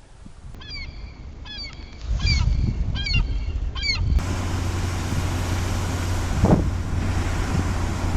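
A bird calling repeatedly, about eight short calls over three seconds, each with a quick downward hook in pitch. Then, after a cut, a steady low hum with a noisy rush over it.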